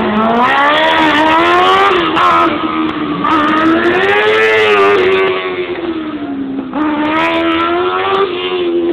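Race buggy's engine revving hard through a slalom, its pitch rising and falling again and again as the driver accelerates and lifts between the turns.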